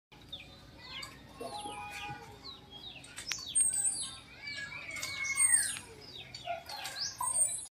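Several small birds chirping and calling together, many short quick falling chirps overlapping, a little louder about two thirds of the way through.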